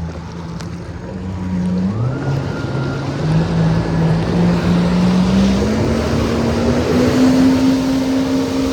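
A jet ski's engine running and speeding up, its pitch climbing in steps. A rush of water and spray grows louder as it goes faster.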